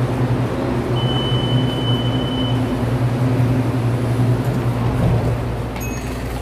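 Steady low rumble of a moving train heard from inside the carriage. A thin high whine sounds over it about a second in and lasts about a second and a half.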